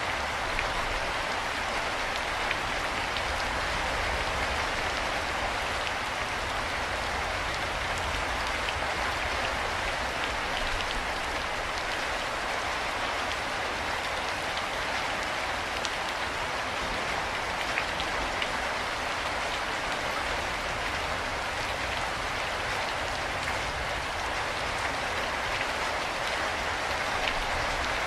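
Steady rain falling, an even hiss with scattered patter of individual drops.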